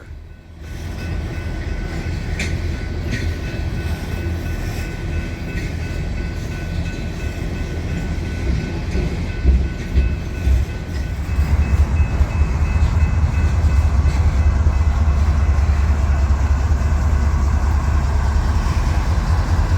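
Empty oil train of tank cars rolling past, with a steady rumble of wheels on rail. A faint steady high tone sits in the first half, and the rumble grows louder about halfway through.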